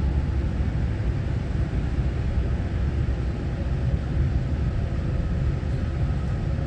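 Steady low rumble and hum inside the passenger car of a Taiwan Railway EMU900-series electric multiple unit, with a faint steady whine coming in about four seconds in.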